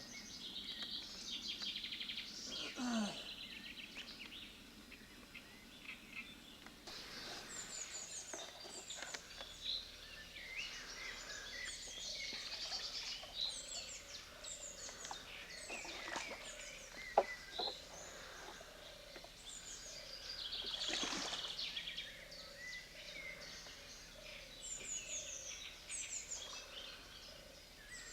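Several songbirds chirping and trilling at once, with a sharp click about 17 seconds in.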